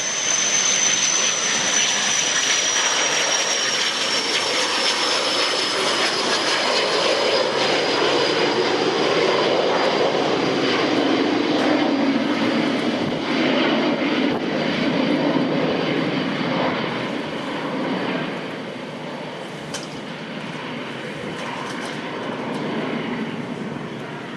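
Cessna Citation CJ1 business jet's twin Williams FJ44 turbofans at high power as it goes by on its takeoff run: a high whine that slowly drops in pitch over a loud roar, then a lower rumble that fades away.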